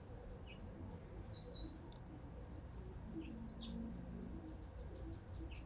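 Faint chirping of small wild birds in the background: short, high chirps every second or so, over a faint, evenly repeating high ticking.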